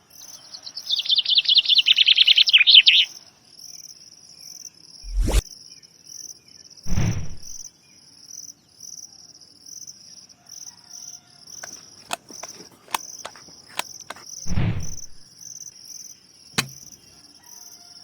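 Crickets chirping in a steady, evenly repeating pattern, with a loud bird trill from about a second in that lasts about two seconds. A few dull thuds and a run of sharp clicks sound in the middle.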